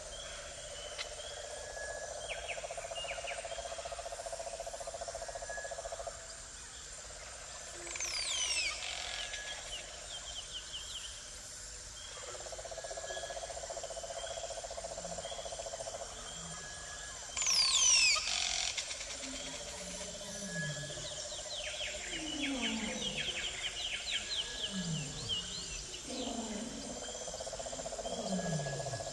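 Wild-animal soundscape: a steady drone that cuts in and out, two bursts of high falling bird calls, and from about two-thirds of the way in a series of low falling grunts from a large animal.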